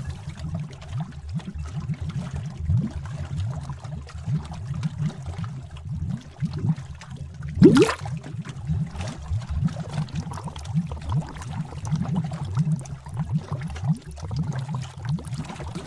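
Cauldron sound effect of liquid bubbling and gurgling: a continuous run of low bubble pops, with one bigger glugging bubble about eight seconds in.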